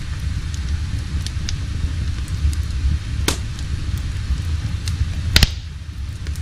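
Wood fire crackling in a fireplace: a steady low rumble of flame with scattered small pops, and two louder snaps, one about halfway through and one near the end.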